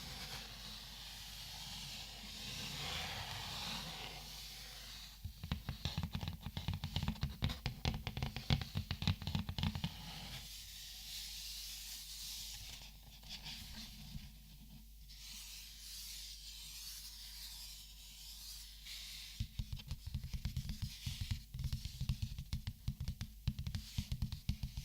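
Close-miked ASMR handling sounds from sorting markers: a soft rustling, broken by two spells of rapid clicking and tapping, one about five seconds in and one about twenty seconds in, each lasting several seconds.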